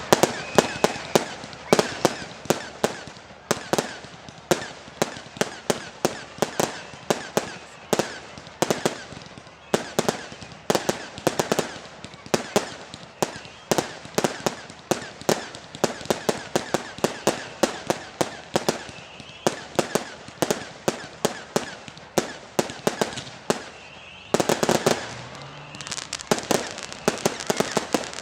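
Fireworks display: a rapid, irregular string of sharp bangs and crackles, several a second, with a denser, louder volley near the end.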